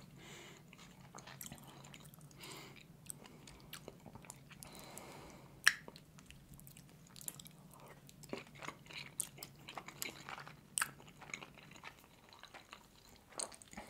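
Close-miked chewing and wet mouth sounds of someone eating soft steamed meat dumplings (manti), with scattered small clicks and a sharp fork-on-plate click about six seconds in, the loudest sound here.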